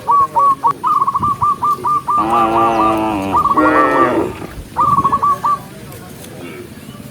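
Cattle mooing twice, each call about a second long, with runs of quick, high, repeated chirping notes before and between the calls.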